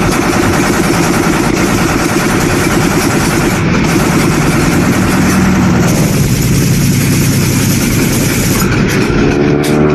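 Piston aircraft engine running loudly and steadily. Near the end, a few steady higher tones join in.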